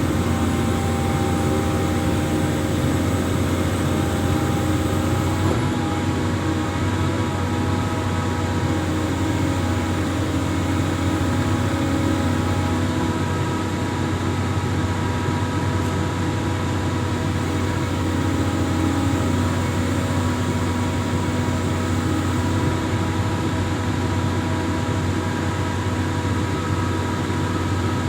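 Amphibious excavator's diesel engine running steadily under work, with a constant low drone and several steady whining tones that shift slightly in pitch a few times.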